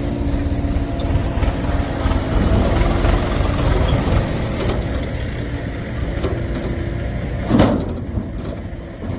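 Heavy diesel machinery engine running with a steady low rumble, with a brief loud burst of noise about seven and a half seconds in.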